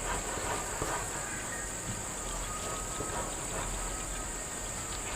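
Insects chirring in a steady, unbroken high-pitched drone, with faint scattered clicks beneath it.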